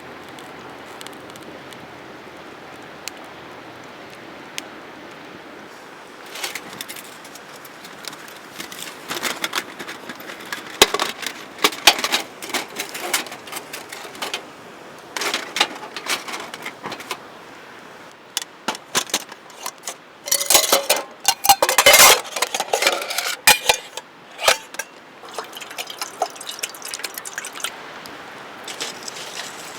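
Irregular clinks, knocks and clatter of hard objects being handled, over a faint steady hiss; the handling starts a few seconds in and is busiest a little past the middle.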